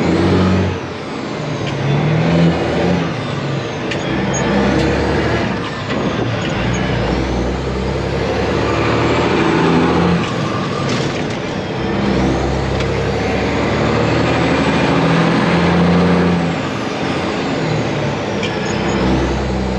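Kenworth truck's Detroit Diesel engine pulling a heavy load, the revs climbing and dropping several times as the driver shifts through the gears of the 18-speed manual gearbox.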